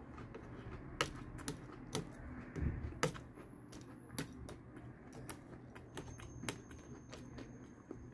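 Dry Pumpkin Spice Cheerios crunching as they are chewed close to the microphone: irregular sharp crackles, a few a second.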